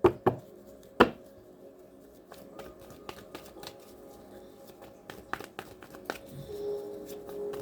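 Tarot cards being handled and laid out: scattered light taps and snaps, with two sharper clicks in the first second. Faint ambient music with a held low tone runs underneath and swells near the end.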